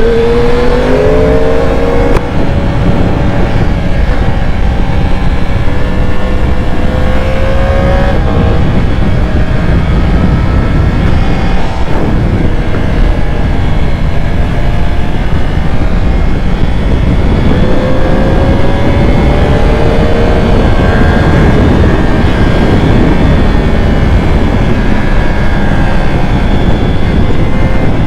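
Sport motorcycle engine running at speed and accelerating, its pitch rising sharply in the first couple of seconds and again a little past the middle, under heavy wind rush on the microphone.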